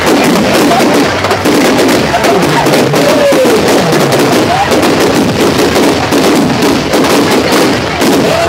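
Fireworks crackling and popping in a dense, continuous barrage, with crowd voices mixed in.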